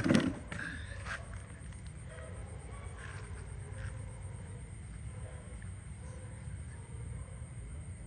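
Wood fire burning in a fireplace: a steady low rumble with scattered small crackles and pops of the burning logs, and one louder, harsher burst right at the start.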